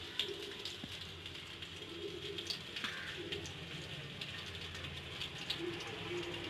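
A bird cooing in the background: a few short, low coos spaced a second or two apart, over a steady faint hiss with a few light clicks.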